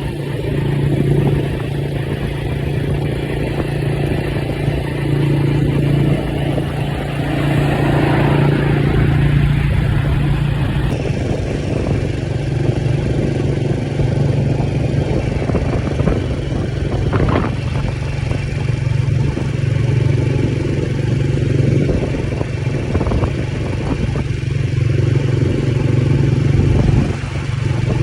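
Motorbike engine running at a steady cruising pace while being ridden along, with a few light clatters near the middle.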